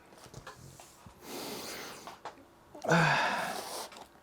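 A man breathing close to the microphone: a long breath in about a second in, then a louder sigh out with a slight voiced start about three seconds in.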